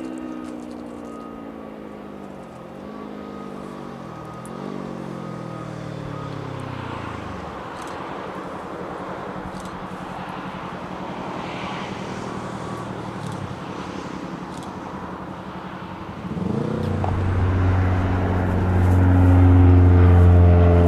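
Aircraft engine passing, its pitch falling as it fades out over the first several seconds. Near the end, a louder, closer engine starts suddenly and keeps running.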